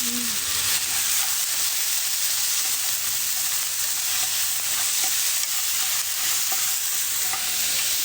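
Food sizzling steadily as it fries in a pan, a constant hiss with a few faint crackles.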